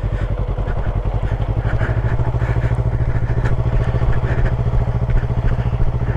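Yamaha R3 motorcycle engine running steadily at low revs, with even firing pulses and no revving.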